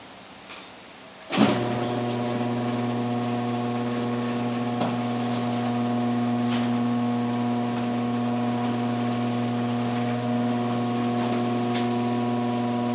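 Garage door opener motor starting suddenly and running at a steady hum for about twelve seconds as it drives the door through its travel, then stopping.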